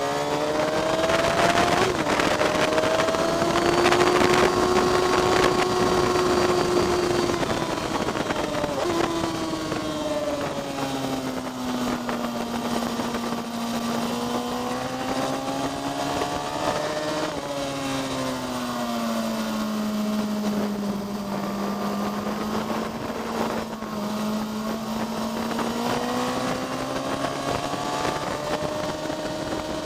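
Onboard sound of a track-day motorcycle engine at speed, its pitch climbing and holding, then falling sharply twice as it slows for corners before pulling hard again, over steady wind rush.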